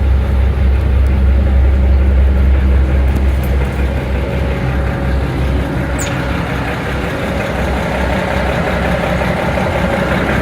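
A GE 65-ton center-cab locomotive's six-cylinder Cummins diesel engine idling with a steady low drone.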